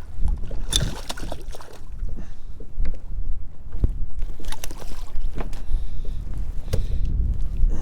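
Wind rumbling on the microphone, with scattered knocks and water noises from a kayak as a hooked bass is fought and brought in.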